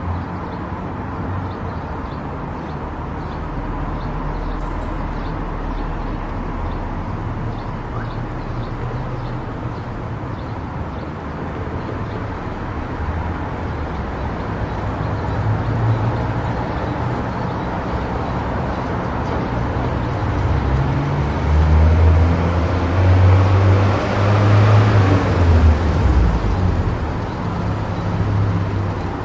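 Car driving on a highway: steady tyre and engine noise with a deep rumble, swelling louder for several seconds about two-thirds of the way through.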